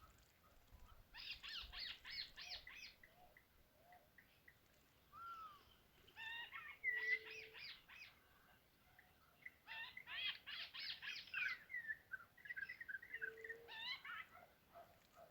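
Birds calling, faint: three bursts of quick repeated chirps, about a second in, around six seconds in and around ten seconds in, with scattered single whistled notes and two brief low hoots between them.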